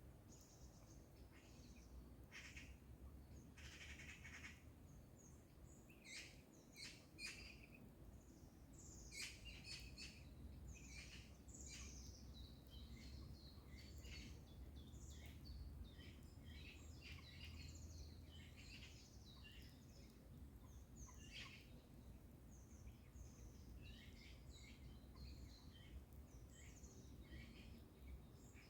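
Several birds singing and calling, faint and overlapping: many short chirps and trills throughout, with a faint low rumble underneath.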